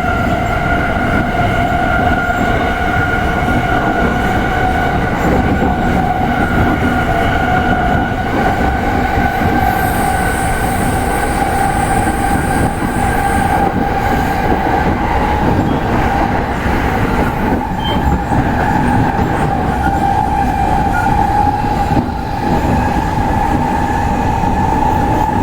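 Train wheels singing on freshly ground long welded rail, heard from inside a commuter train as it picks up speed. The steady tone and its overtones slowly rise in pitch over a low running rumble.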